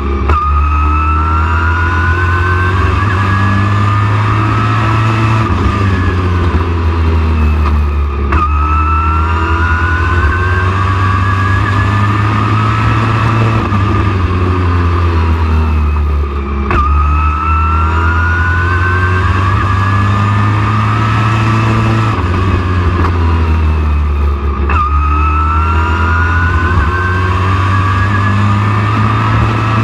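Race truck engine running hard on a short oval, its pitch climbing for several seconds under throttle, then dropping back as it lifts for the turns, over and over about every eight seconds, above a heavy steady low drone.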